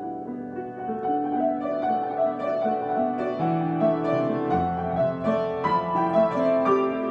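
Solo piano improvisation: sustained chords under a moving melody, growing busier and brighter about a second in.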